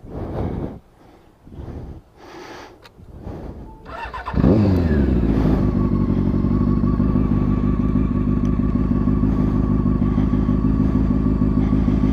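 Motorcycle engine starting about four seconds in. The revs sweep briefly as it catches, then it settles into a steady idle. Before it starts there are a few short, scattered handling noises.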